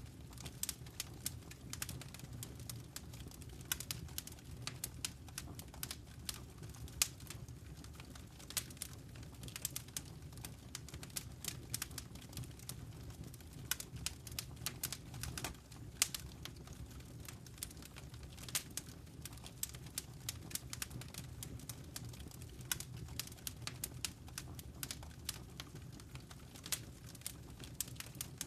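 Wood fire crackling in a fireplace: irregular sharp pops and snaps of varying loudness over a low steady rumble of flames.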